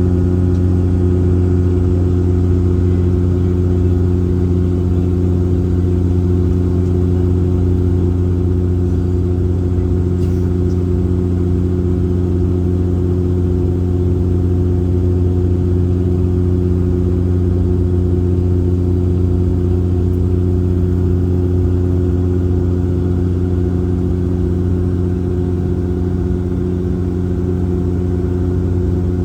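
Cabin drone of a Bombardier Dash 8 Q400's Pratt & Whitney PW150A turboprops and six-bladed propellers, heard from inside the passenger cabin. A steady low propeller hum with a stack of higher tones above it, holding constant pitch and loudness throughout.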